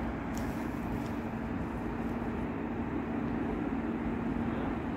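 Steady rumble of an LNER Azuma train moving off down the line, with a constant low hum.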